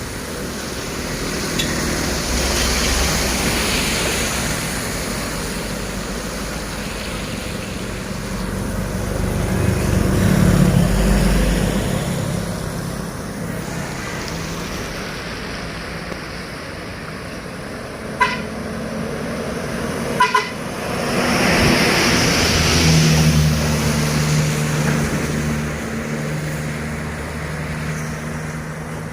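Heavy trucks and other traffic passing on a wet road: diesel engine hum swelling as vehicles go by, over tyre hiss. A vehicle horn gives one short toot past the middle, then two quick toots about two seconds later.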